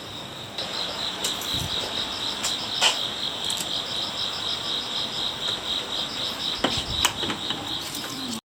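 Insects chirping in a steady, rapid pulsing trill, with a few sharp clicks or knocks. The sound cuts off suddenly near the end.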